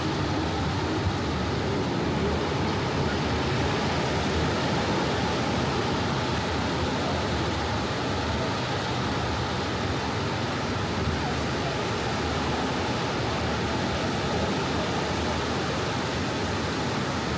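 Soft ocean waves washing on a tropical beach: a steady wash of surf without distinct breaks.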